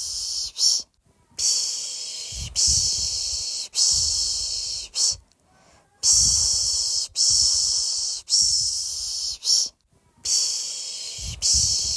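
A person shushing a baby to sleep with the Turkish 'piş piş' sound: long 'shh' hisses repeated about once a second, in runs of three or four with brief pauses between.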